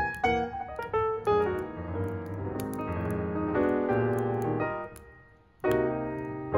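Background piano music: struck notes and chords, fading briefly about five seconds in before the playing picks up again.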